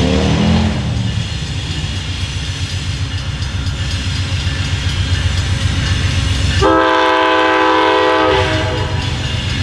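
Amtrak Vermonter passenger train passing close by. A horn blast ends with its pitch falling as the locomotive goes past, then the train rumbles by on the rails. A second horn blast of under two seconds sounds about two-thirds of the way through, holding a steady pitch.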